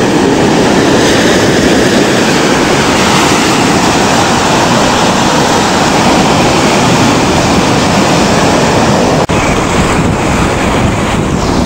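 Sea surf washing on the beach, mixed with wind buffeting the microphone, as one loud steady rush. A momentary dropout breaks it about nine seconds in.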